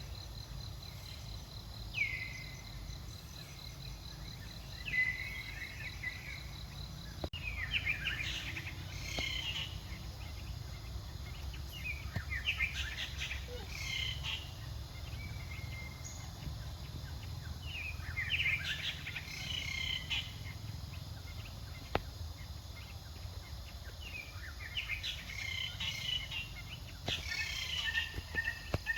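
High chirping animal calls over a steady low rumble of background noise: at first single short calls falling in pitch, about every two to three seconds, then denser clusters of quick chirps every five to six seconds.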